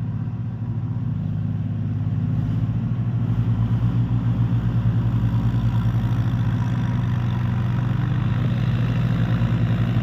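Mahindra 265 DI tractor's diesel engine running steadily, growing a little louder with a fast even pulsing from about four seconds in.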